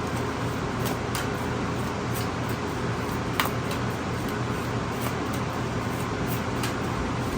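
Steady hum and hiss of background noise, like a fan or air conditioner, with faint scattered clicks and one sharper tick about three and a half seconds in.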